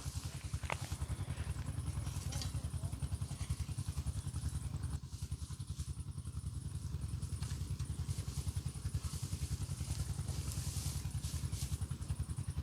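An engine running steadily with a fast, even putter.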